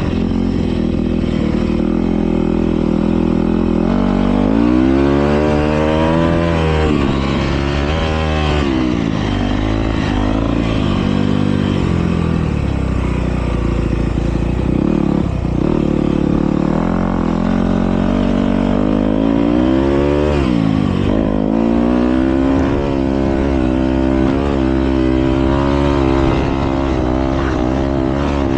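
Motocross dirt bikes racing, engines revving up and dropping back again and again as the riders work the throttle around the track.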